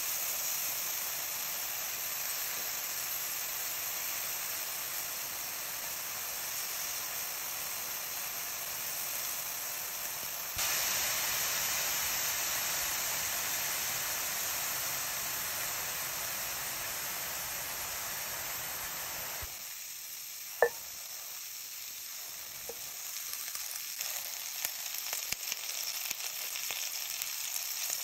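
Sliced porcini mushrooms sizzling in hot fat in a cast-iron skillet, a steady frying hiss. About twenty seconds in there is one sharp click, then the frying turns to denser crackling and spitting near the end, with butter and herbs in the pan.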